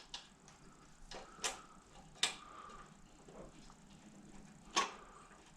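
Small metal clicks and taps of bolts being set back in by hand on a push mower's carburetor. There are three sharper clicks, at about a second and a half, at two and a quarter seconds and near the end, with lighter taps between them.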